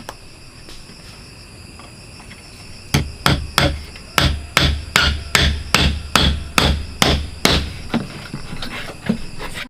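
Hammer striking wood in a quick, even run of about fourteen blows, about three a second. It starts about three seconds in and tapers to a few lighter taps near the end, as a wooden house is being finished.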